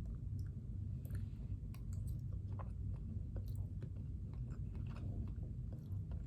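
Close-up chewing of noodles, with irregular small wet clicks and smacks over a steady low room hum.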